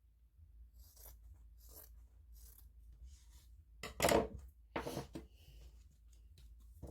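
Scissors cutting felt, a series of separate snips with a louder pair about four to five seconds in.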